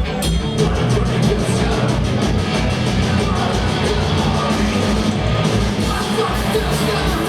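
Live punk band playing loud and fast: distorted electric guitars, bass and a rapid, steady kick-drum beat.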